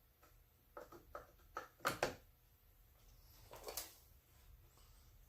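Faint clicks and knocks of small parts and tools being handled on a workbench: several light taps quickening to two sharper knocks about two seconds in, then a soft rustle near four seconds.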